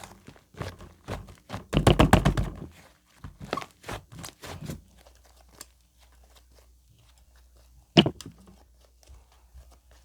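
Hands working white slime: a dense run of short sticky sounds in the first half, loudest about two seconds in, then a single sharp thunk near the end.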